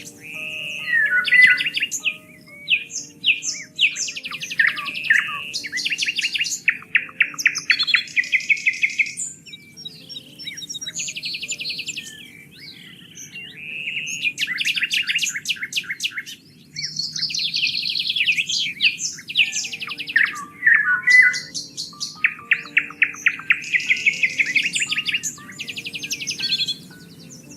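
Dense songbird chorus: several birds singing at once in fast trills and rapid runs of repeated chirps, with a few short gaps near 10 s and 16 s.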